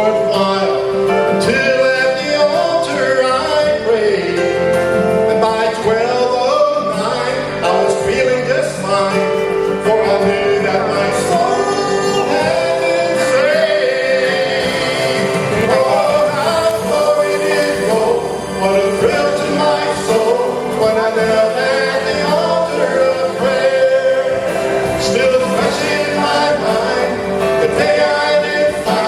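Gospel song performed live: a male voice singing over instrumental accompaniment.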